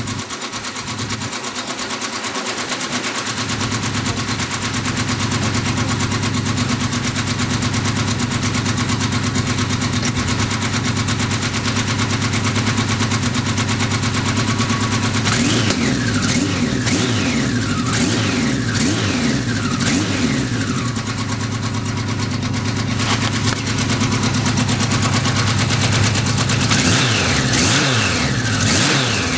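Kawasaki Z1000 LTD's air-cooled inline-four, fitted with an old Harris exhaust, idling steadily, then revved in a series of throttle blips from about halfway through, with a short lull before more blips near the end. It is still warming from a cold first start of the day and runs on fitted Suzuki carburettors, not quite right by the owner's account.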